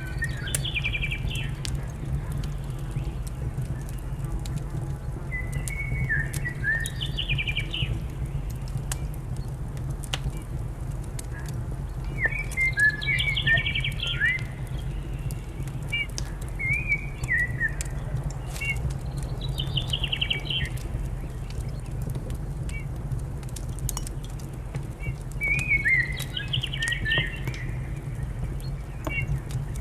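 A songbird singing short phrases every few seconds over the crackling and popping of a wood fire, with a steady low rumble underneath.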